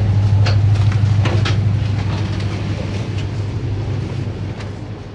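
Passenger train coach with a steady, loud low machinery hum that fades as the coach is entered from the gangway. A few sharp knocks come in the first second and a half.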